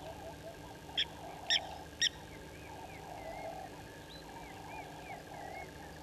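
Wild birds calling in the bush: a continuous busy chatter of lower calls, with three loud, sharp, high calls in quick succession about a second in, and a few faint warbling calls after them.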